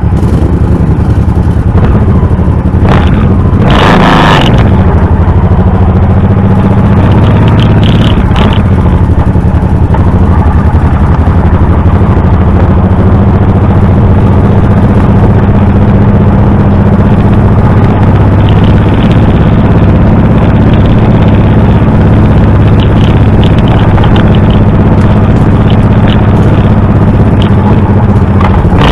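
Honda V-twin motorcycle engine running steadily while riding. About four seconds in the engine note dips and comes back up, with a brief loud burst of noise.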